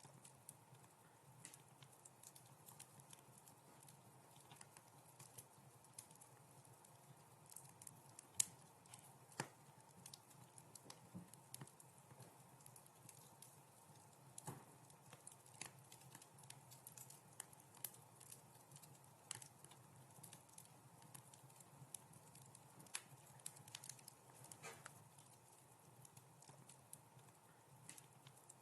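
Faint wood fire crackling: irregular small pops and snaps over a low steady hiss, with two sharper pops about eight and nine seconds in.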